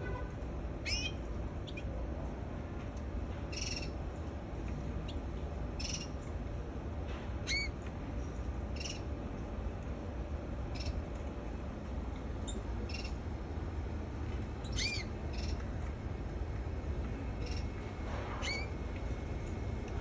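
Canary giving short, scattered chirps, single curving notes every second or few seconds rather than a continuous song, over a steady low background noise.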